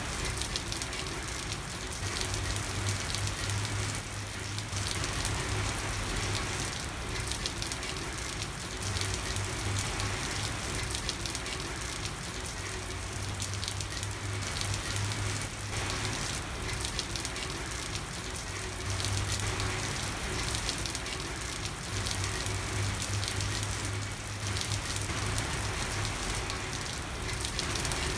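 Steady rain falling on a street, an even pattering hiss, with a low drone that swells and fades every few seconds underneath.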